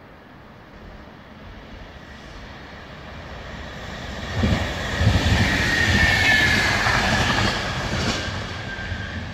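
Electric commuter train approaching and passing close by at speed: steel wheels running on the rails grow louder over several seconds, peak about halfway through with a high whine that drops slightly in pitch as the train goes by, then fade.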